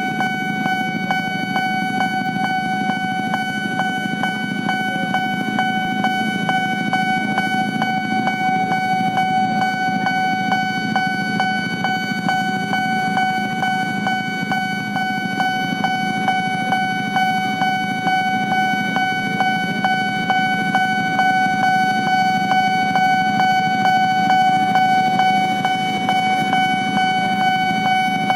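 Railway level-crossing warning bell ringing without a break: one high electronic tone struck in fast, even repeats. Under it is the low rumble of motor vehicles running.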